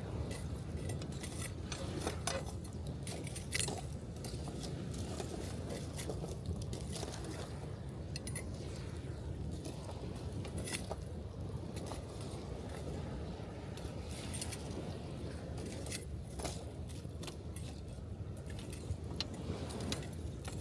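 Wood campfire crackling, with sharp pops and snaps scattered irregularly and one louder pop a few seconds in, over the steady wash of gentle surf breaking on the beach.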